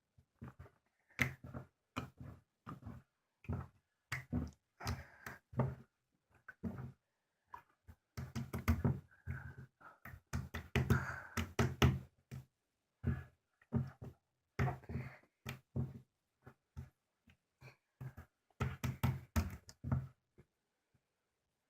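Slime being squished and poked by hand, making irregular sticky pops and clicks, some coming in quick runs.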